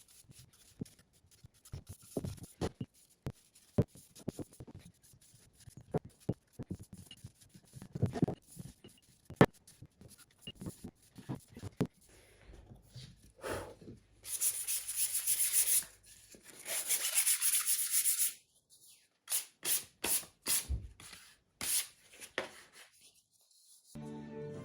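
Driftwood candle holders being sanded: scattered knocks and clicks of the wood being handled, then bursts of sandpaper rubbing on wood from about halfway in, ending in a few short strokes. Music comes in just at the end.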